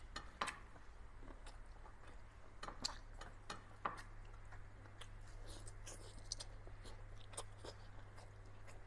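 A person chewing and crunching food close to the microphone, with scattered sharp bites, the loudest about half a second in, near three seconds and near four seconds. A steady low hum runs underneath.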